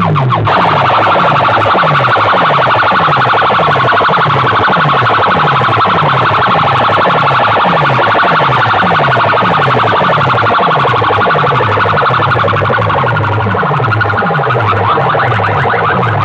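Loud music blasting from a DJ sound system: a siren-like electronic track over a heavy bass beat, each bass hit sliding down in pitch, about two a second.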